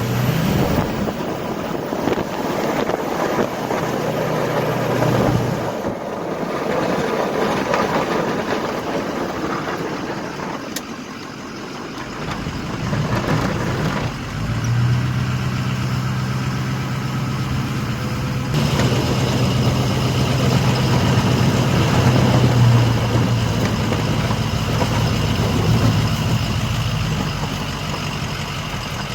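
Truck engine running with road and cab noise heard from inside the cab while driving, the engine drone shifting in pitch and strength abruptly several times.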